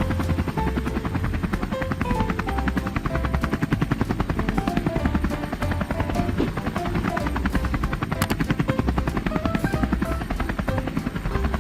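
Helicopter rotor sound, a fast steady chopping, with a light melody of short notes playing over it.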